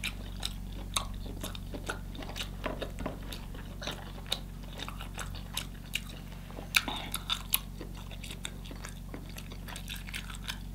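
Close-miked eating sounds: wet chewing of steamed lobster tail meat, with irregular short mouth clicks. A steady low hum runs underneath.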